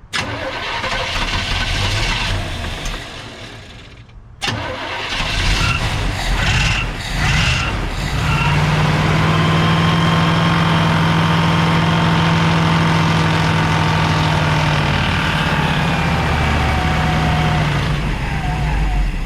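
1952 Mercury's supercharged engine, a long-sitting engine primed with fuel in the carburettor bowl, turning over and running roughly before cutting out about four seconds in. It is started again, sputters unevenly, then catches and settles into steady running for the last ten seconds or so.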